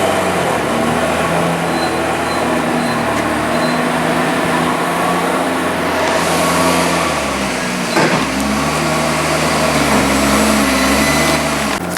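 Heavy diesel machinery working a maize silage clamp: a loader's engine runs loud and steady, its revs stepping up and down as it works, with a single knock about eight seconds in.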